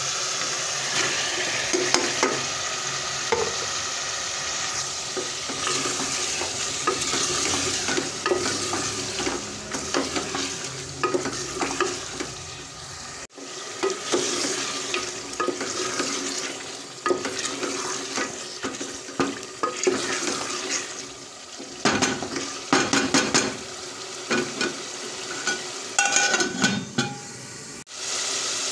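Chicken pieces sizzling as they fry with onions and masala in hot oil in a metal pot, stirred with a wooden spoon that scrapes and knocks against the pot. The sound breaks off suddenly twice, about 13 seconds in and just before the end.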